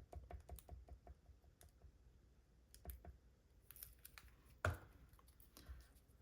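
Faint clicks and taps from hands working with paper and glue on a craft table. A quick run of light ticks comes in the first second and a half, then a few scattered taps follow, the sharpest a little under five seconds in.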